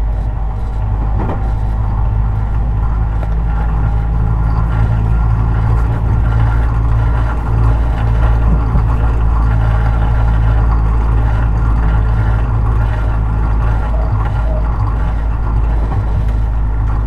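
Running noise of a Tobu 50090 series electric train, heard from inside a car near the floor: a steady, loud low rumble of wheels and running gear with a faint steady whine over it.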